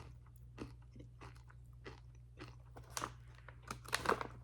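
A person chewing freeze-dried gummy bears close to the microphone: a run of short, crisp crunches, louder near the end.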